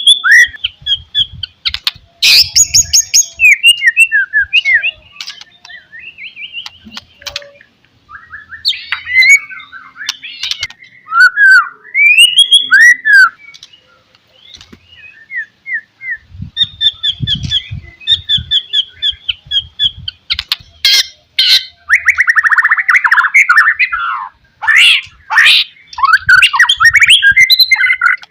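White-rumped shama singing loudly: a long, varied song of clear whistled notes, rising and falling slurs and fast rattling trills, in phrases broken by short pauses.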